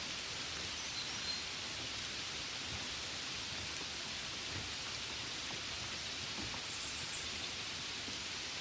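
Gentle rain falling on a window: a steady, even hiss of drops that holds the same level throughout.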